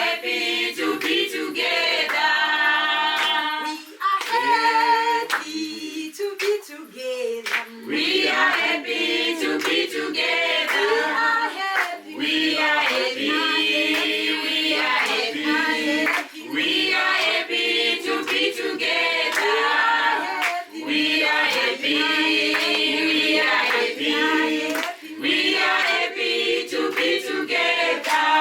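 A group of voices singing together unaccompanied, with sharp hand claps running through the song.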